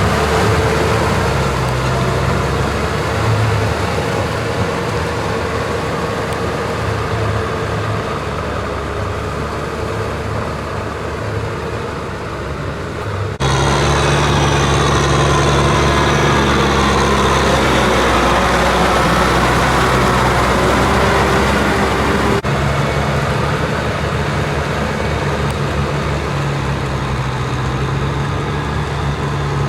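Kubota M6040SU tractor's diesel engine running steadily as it works a field. The engine note changes abruptly twice, about a third and three quarters of the way through.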